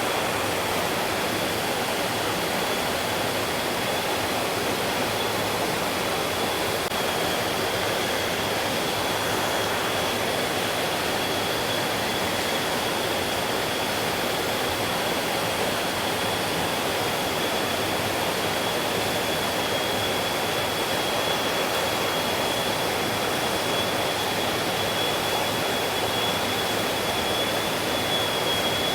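Mountain stream flowing steadily over rocks, an even rushing of water with no breaks. A faint thin high-pitched tone runs steadily underneath it.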